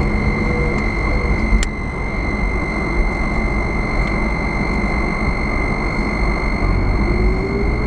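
Car on the move: steady road and engine rumble with a constant high whine. Near the end the engine note rises as the car speeds up.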